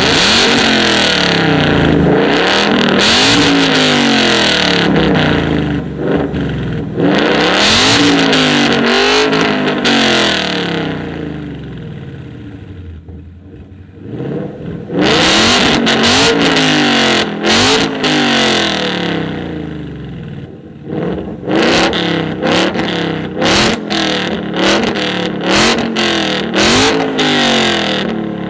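Modified car engine revved hard in a 2-step rev battle: long held revs with the pitch swinging up and down, a brief drop in level about halfway, then a series of short, quick throttle blips with sharp exhaust bangs near the end.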